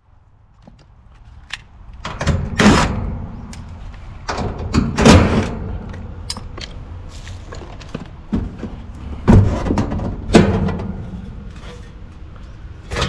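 Sheet-metal service panel being taken off an outdoor air-conditioning condensing unit: scattered clunks, rattles and scrapes of metal.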